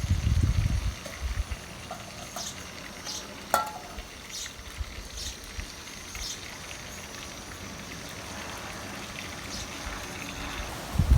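A faint steady sizzle of food frying in oil, with scattered sharp crackles and pops. Loud low rumbling thumps come at the very start and again at the end.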